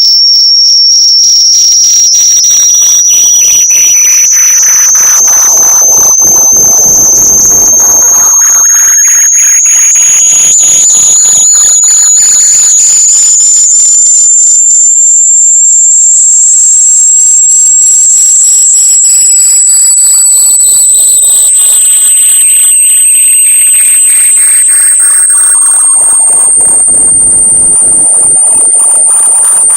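Loud, piercing electronic tone that rises slowly in pitch, with fainter tones repeatedly sweeping down and back up beneath it. It is a synthetic locator sound played through AirPods so a lost earbud can be heard and found.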